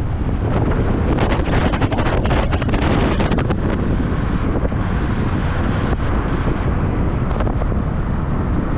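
Wind buffeting the microphone over the steady rumble of a moving car, with frequent crackling gusts.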